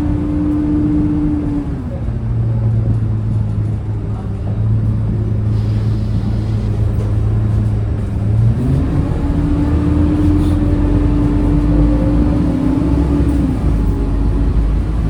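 Scania K230UB city bus running on the move, heard on board: its engine and driveline give a steady whine that drops in pitch about two seconds in, settles into a low drone, and climbs back up about nine seconds in as the bus changes speed.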